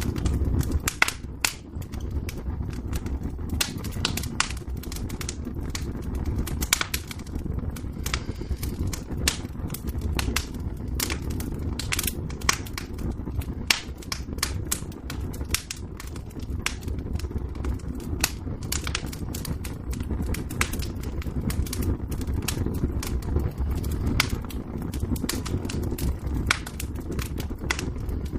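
Wood fire in a fireplace crackling, with frequent irregular sharp pops over a low steady rumble of the flames.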